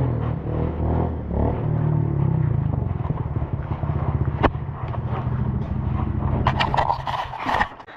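An 85cc two-stroke dirt bike engine running close by, its pitch shifting a little as the throttle changes. Near the end comes a loud scraping clatter, and then the engine sound drops away abruptly.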